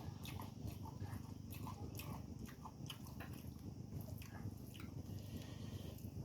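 Close-up eating sounds of a person chewing a meal, with irregular wet mouth clicks and smacks a few times a second.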